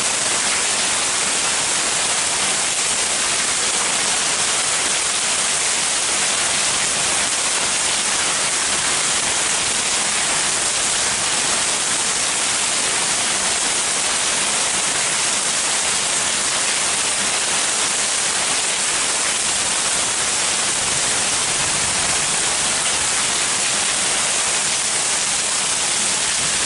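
Heavy rain pouring down in a steady, dense hiss, without letup.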